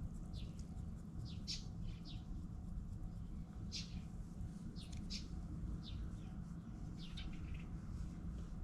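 Small birds chirping: short, high chirps, some in quick pairs, scattered every second or so over a steady low background rumble.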